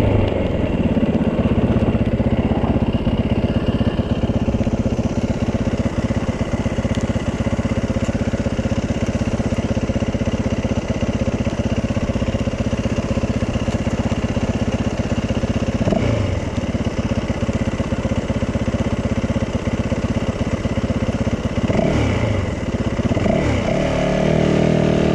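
Yamaha 450 dirt bike's four-stroke single-cylinder engine running steadily while ridden. The engine note shifts briefly twice in the second half and settles higher near the end as the throttle opens.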